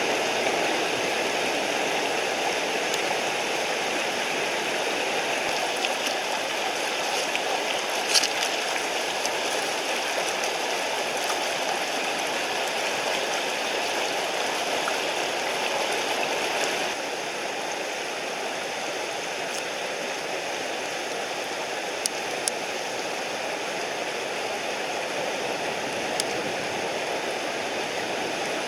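Mountain stream water rushing steadily over rocks, dropping a little in level about two-thirds of the way through, with a few brief sharp clicks.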